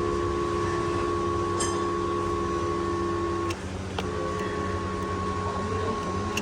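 Power seat slide motor of a 2016 Honda Civic running with a steady loud whine. It stops with a click about three and a half seconds in, starts again half a second later as the seat changes direction, and stops again near the end. The loud noise as the seat travels forward and back is, as the mechanic sees it, the first sign of the seat motor about to fail.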